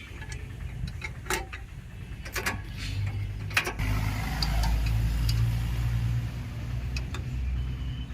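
Sharp metallic clicks and clinks of a spanner and fittings as a hydraulic pipe elbow is bolted onto its studs on a tractor, over a steady low rumble that grows louder about halfway through.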